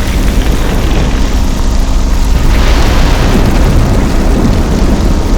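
A loud, continuous deep rumble with a steady low drone under it.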